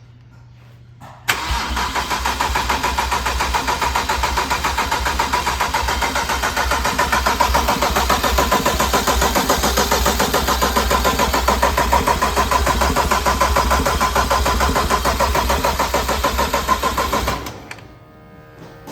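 Starter motor cranking a freshly built BMW N54 twin-turbo inline-six for about sixteen seconds with a fast, even pulsing; the engine does not fire because the injectors and coils are unplugged, so the cranking is priming the oil system. The cranking begins about a second in and stops shortly before the end.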